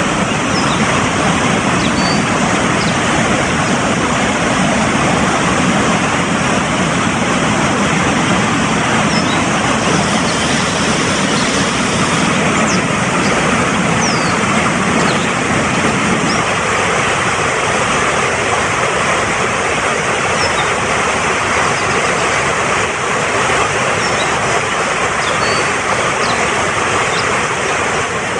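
Fast-flowing mountain stream rushing steadily over rocks, with faint short bird chirps now and then. The deep part of the rush drops a little about two-thirds of the way in.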